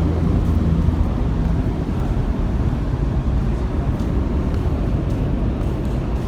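Steady rumbling noise of a moving vehicle, a low hum under an even rushing sound.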